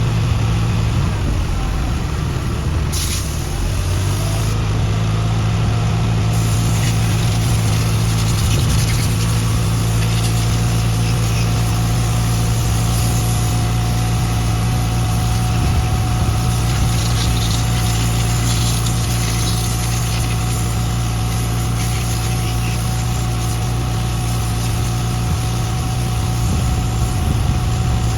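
Heavy-equipment diesel engine idling steadily.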